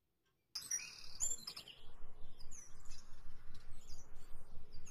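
Small birds chirping in quick, high repeated notes, loudest about a second in and fainter after, following half a second of silence at the start. A faint steady low hiss runs underneath.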